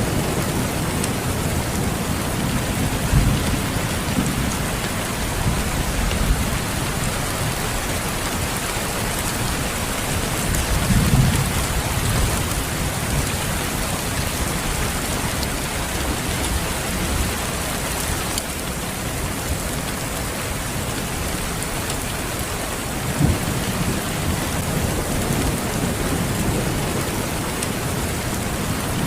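Steady, dense rain, with low rumbles of thunder swelling up three times.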